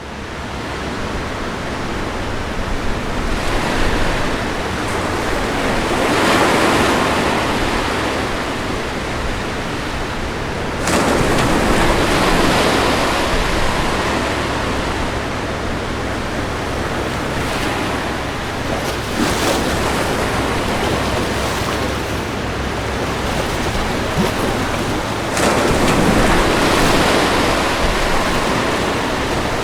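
Ocean surf washing steadily on a beach, swelling into louder breaking waves every several seconds, about four times.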